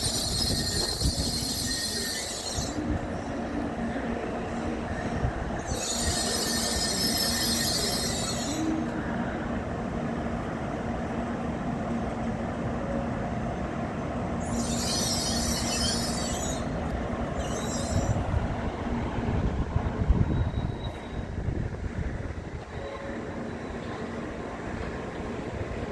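A Tokaido Shinkansen train moving at the station platform: a steady low rumble and hum, broken four times by high hissing squeals lasting one to three seconds each.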